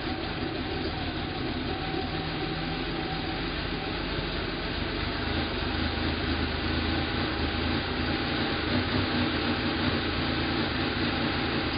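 1986 Porsche 911 3.2 Carrera's air-cooled flat-six idling steadily on a cold engine through the stock exhaust, growing slightly louder about halfway through.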